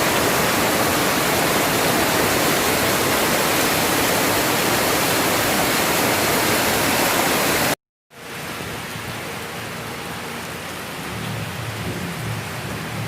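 Heavy rain pouring down in a loud, steady rush. It breaks off abruptly about eight seconds in, then comes back quieter.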